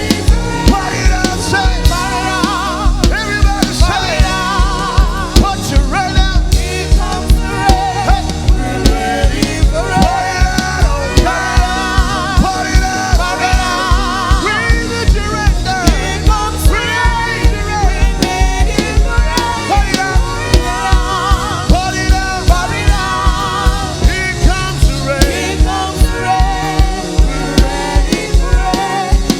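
Gospel music: a drum kit keeps a steady beat under voices singing long, wavering vocal runs.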